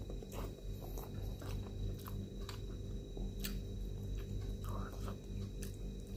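A man chewing a mouthful of rice and water spinach close to the microphone, with scattered wet mouth clicks and smacks at irregular moments, over a steady low hum.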